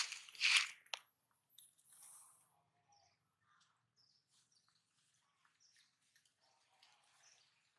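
Faint, scattered high chirps of small birds, after two short, loud scratchy noises in the first second.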